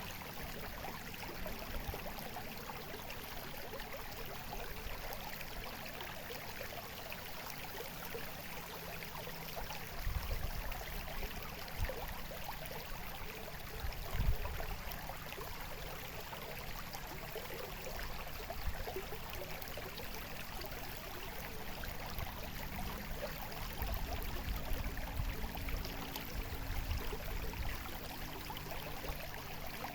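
Steady trickling, babbling water, with a few low rumbles coming and going over it in the middle and later part.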